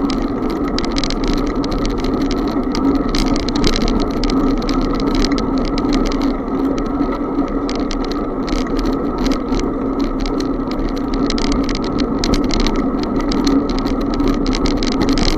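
Bicycle being ridden along the road: a steady hum of the rolling ride with rapid, irregular rattling clicks throughout.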